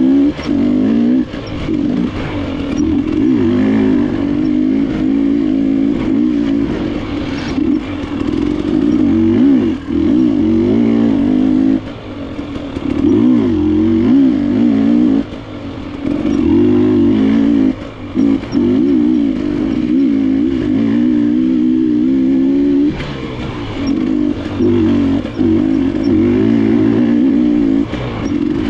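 KTM enduro dirt bike engine revving up and down as it is ridden along a trail. The throttle shuts off briefly every few seconds, then opens again.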